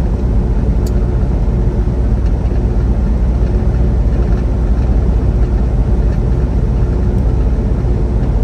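Semi truck's diesel engine and road noise heard inside the cab while cruising, a steady low drone.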